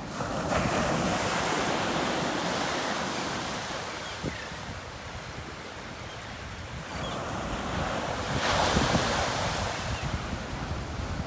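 Surf breaking on a beach: two waves crash, one about half a second in and another about eight and a half seconds in, with the wash running between them. Wind buffets the microphone with a low rumble throughout.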